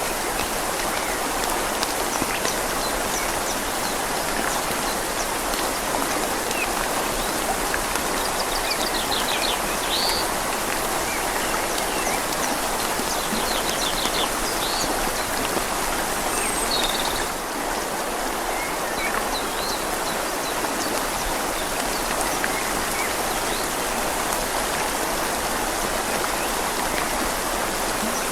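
Steady rain falling on leaves together with a river flowing, making an even hiss. A bird calls a few times with short trills in the middle.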